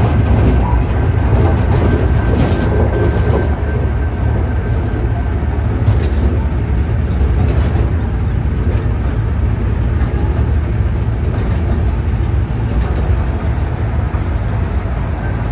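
Amusement-park train running along its track: a steady low rumble with a few scattered clicks.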